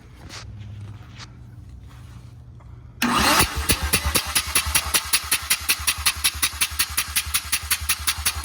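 Mazda 13B two-rotor rotary engine turned over by its starter motor for a compression test without firing: it starts suddenly about three seconds in, then settles into steady, even cranking pulses, about five to six a second.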